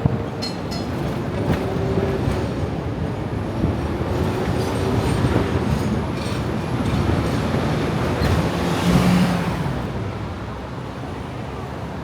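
Hong Kong double-decker electric tram running on its rails: a steady rumble and rattle with a few brief whining tones.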